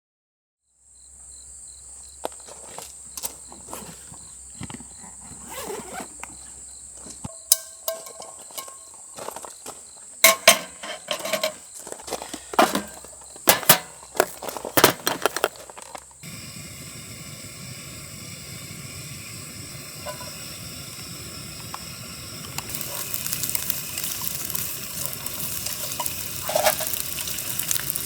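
Camp cooking: scattered clicks and clinks of utensils and cookware, with a steady high insect trill behind them. About halfway through, this gives way to an even hiss, and later a sizzle builds and grows louder as food starts frying in the pan.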